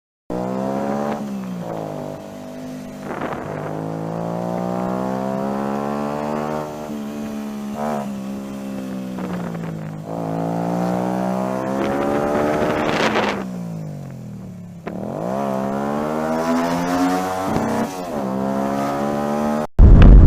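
A vehicle engine accelerating, its pitch climbing and then dropping again several times. A very loud horn blast starts right at the end.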